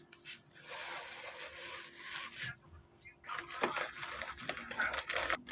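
Rustling, crinkling handling noise in two stretches of about two seconds each, with a short pause between them.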